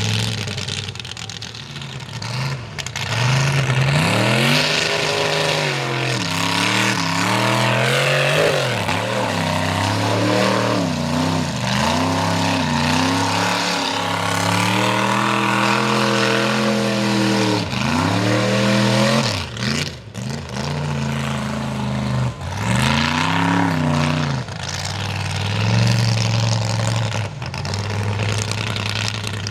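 Mega truck engine revving hard in repeated rises and falls, as when working through a mud bog, settling back toward idle between revs and near the end.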